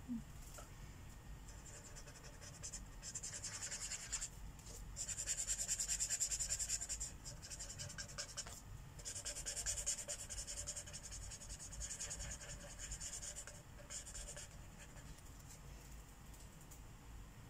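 Marker tips scratching over paper as an area of a mandala is colored in with quick back-and-forth strokes, in several bursts with short pauses between them.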